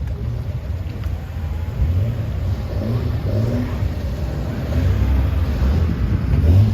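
Car engines running with the revs rising several times: cars pulling away.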